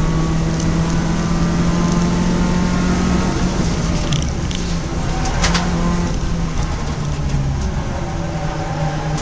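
Citroën Saxo race car's engine heard from inside its stripped cabin, running at a fairly steady pitch under way, dipping slightly near the end. A short sharp click cuts through about halfway.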